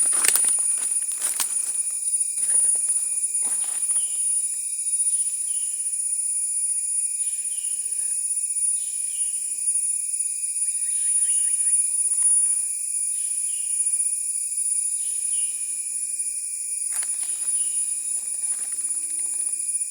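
Natural outdoor ambience of insects and birds: a steady high-pitched insect drone and a second steady whine, with a short falling chirp repeated about once a second. A few clicks come near the start, and low short hoots repeat in the last few seconds.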